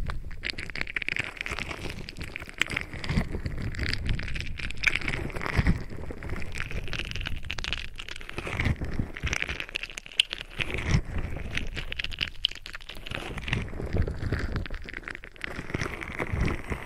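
Close scratching and rubbing against a binaural ASMR microphone, full of fine crackles with soft low thumps here and there.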